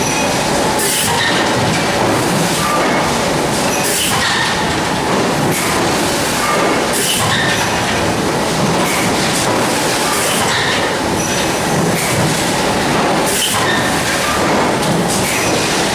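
Steady, loud mechanical running noise with short high-pitched squeaks and clicks coming back about every second or so, the abnormal noise that the recording was made to capture.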